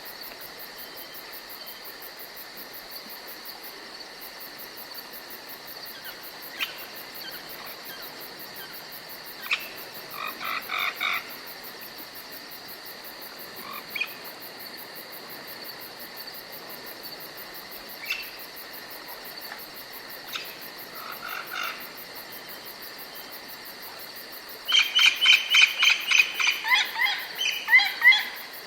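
Forest ambience: a steady high insect drone with a few short, sharp bird calls scattered through it. Near the end a bird breaks into a loud, fast series of repeated notes, several a second.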